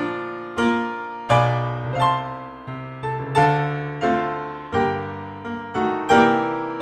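Background piano music: slow, gently decaying struck chords and notes over held bass notes.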